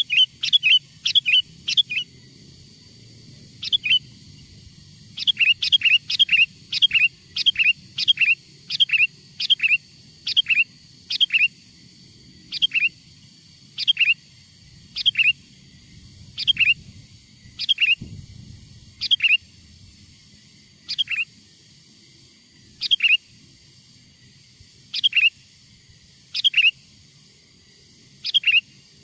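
Wild sooty-headed bulbul (kutilang) calling: short, sharp notes that each sweep quickly downward, first in quick runs of several, then spaced out to one every second or two.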